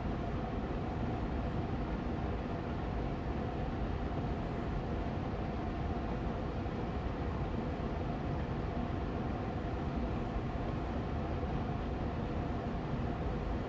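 Austin Air Allergy Machine air purifier's fan running steadily on medium speed: an even whooshing rush of air with a faint steady hum.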